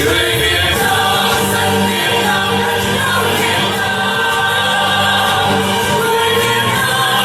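Music with a group of voices singing together in chorus over instrumental accompaniment.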